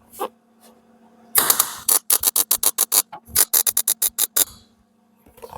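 Electric welder striking tack welds on a steel bulkhead repair panel: a short crackling burst about a second and a half in, then a quick run of sharp crackles, about eight a second, stopping near the end.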